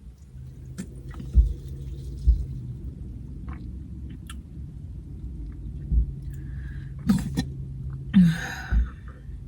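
A person burping once, a short falling sound near the end, after several dull low thumps, over a steady low hum.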